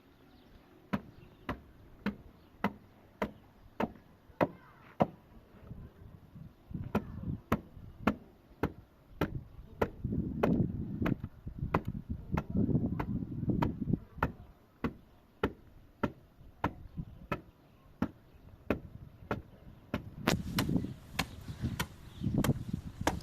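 Steady, rhythmic blows of a hand tool on wood, nearly two a second. A duller low rumbling noise swells in between the blows around the middle and again near the end.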